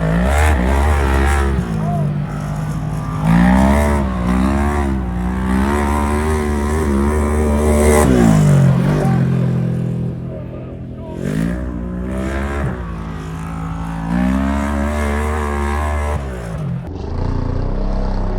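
Polaris RZR XP 1000 side-by-side engine revving up and falling back again and again as it is driven hard around a dirt track, its pitch rising and dropping every second or two.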